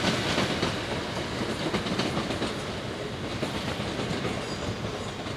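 Southern Class 377 Electrostar electric multiple unit passing, a steady rolling rumble with its wheels clicking over the rail joints.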